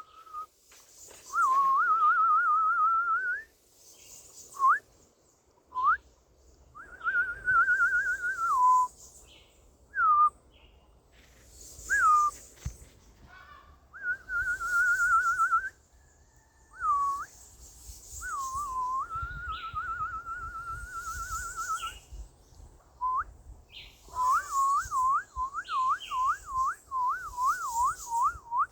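A person whistling a tune in clear held notes with a fast wavering vibrato, broken by short upward slides. Near the end comes a quick run of repeated rising-and-falling notes, about two or three a second.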